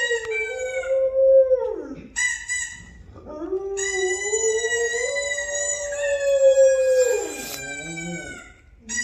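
Dog howling in long, drawn-out howls that slide up and down in pitch, with a short break about two to three seconds in and a fade near the end. A played-back recording of howling sounds along with it, the dog howling in reply.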